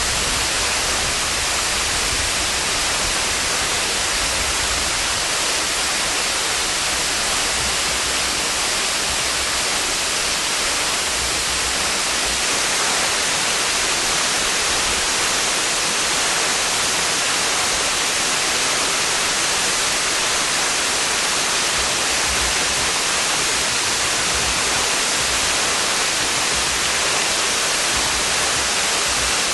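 Waterfall pouring, a steady, unbroken rush of water.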